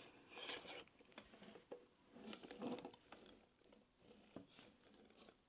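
Faint, scattered clicks and light rattles of small parts of an RC helicopter being handled and turned over.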